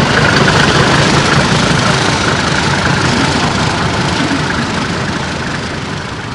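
A car engine running at low speed as a sedan drives slowly past and pulls away, fading out near the end.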